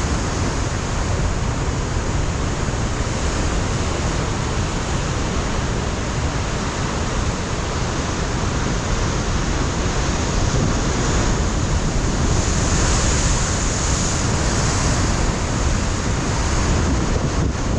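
Ocean surf breaking on a rocky coastline, a continuous wash of waves with wind rumbling on the microphone. The surf swells a little louder about two-thirds of the way through.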